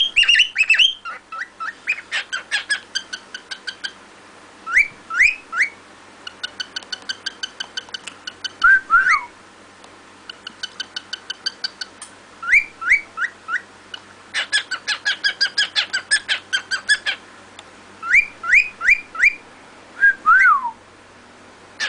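Cockatiel whistling its song: phrases of quick rising whistles followed by fast runs of short chirping notes, repeated several times with brief pauses. Twice, about 9 and 20 seconds in, a phrase ends on a longer falling whistle.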